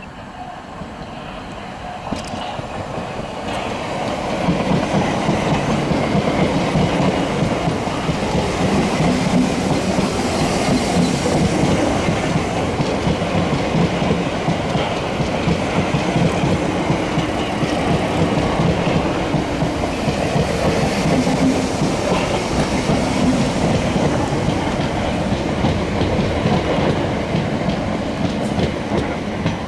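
Gatwick Express Class 442 electric multiple unit running past on the near track, its wheels on the rails growing louder over the first few seconds, staying loud and steady while the coaches go by, and easing off near the end as it draws away.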